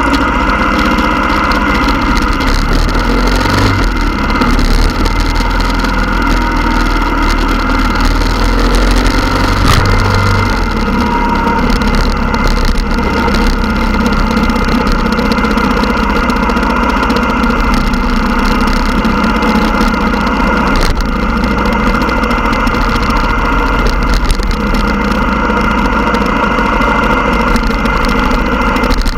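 Motorcycle engine running loud and steady, its pitch holding level.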